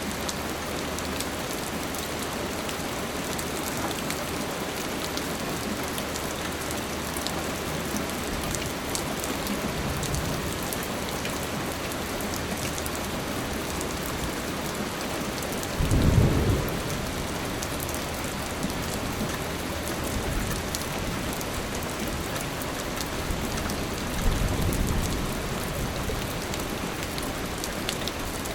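Steady rain falling, a dense even hiss with fine pattering drops. Three brief low rumbles break in: a faint one about a third of the way in, the loudest just past the middle, and another near the end.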